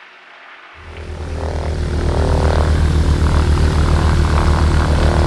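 Beechcraft Duchess's twin propeller engines coming up to power after the brakes are released, about a second in: the low pulsing drone swells quickly and then holds steady and loud, as on a takeoff roll.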